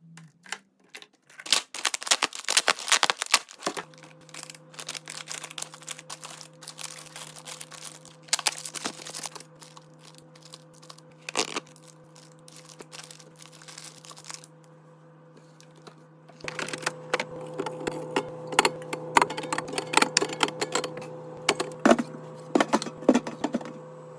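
Rapid clicks, taps and crinkles of plastic containers and food packaging being handled and set down. A steady low hum with a few held tones comes in about four seconds in and gets fuller near the end.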